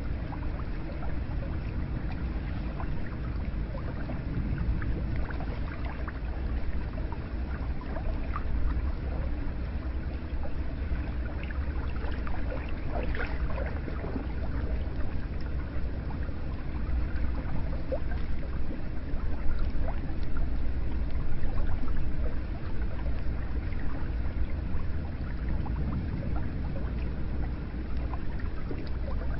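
Hot spring water running steadily into a bath, with scattered small drips and splashes.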